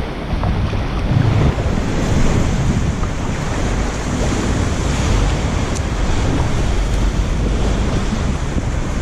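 Wind buffeting the microphone over choppy lake water, a steady rushing noise with waves sloshing around the kayak.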